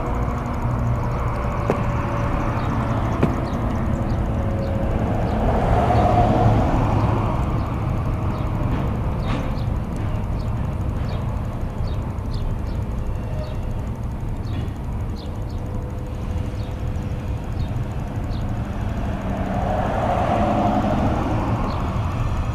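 A train rolling slowly by, a steady low rumble of wheels on rail, with faint squealing tones and a scatter of light clicks through the middle.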